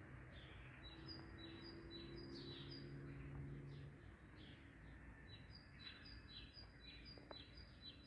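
Small birds chirping faintly: two runs of short, high, repeated chirps, about three a second, each run lasting a few seconds.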